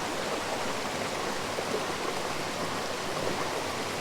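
Waterfall rushing: a steady, even wash of falling river water.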